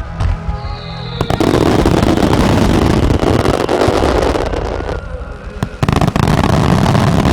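Fireworks finale: a dense, continuous wash of bursts and crackle sets in about a second in, with sharp reports partway through. Music plays under it at the start.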